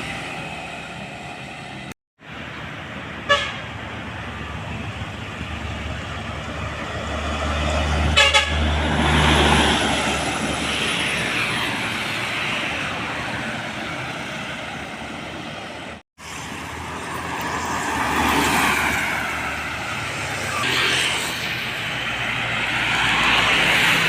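Heavy trucks and buses passing on a road, their engine and tyre noise swelling and fading as each goes by. A short horn toot comes about three seconds in, and a pulsing horn blast with deep engine rumble comes about eight seconds in.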